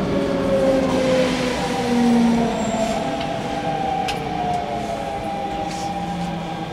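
Hanshin electric train running on the line: the motors whine in several tones that glide slowly in pitch, over steady wheel-and-rail rumble, with a sharp click about four seconds in.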